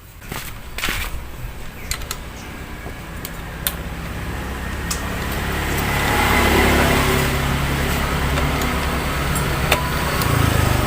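A motor vehicle's engine passing by, swelling slowly to its loudest about two-thirds of the way through, with a few sharp tool clicks near the start.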